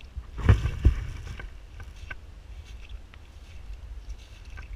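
Heavy rain falling, with a constant low rumble of wind or handling on the microphone and scattered small ticks of drops. Two loud thumps come close together about half a second in.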